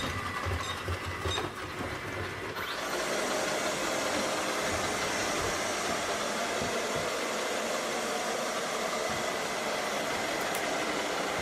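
ILIFE V5s robot vacuum starting a cleaning run: nearly three seconds in, its suction fan and brushes start up into a steady whirring hiss with a faint high whine, which then runs evenly. The running sound is not noisy at all.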